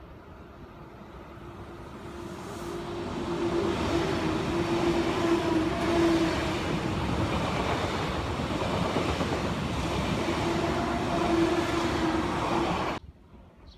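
SBB ICN (RABDe 500) tilting electric express train passing close at speed. Its rumble grows as it approaches, then runs loud and steady with a hum under the wheel noise, and cuts off suddenly near the end.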